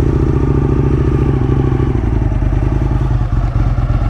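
Aprilia RSV1000's V-twin engine running at low revs, a steady, throbbing note whose pitch shifts slightly about two seconds in.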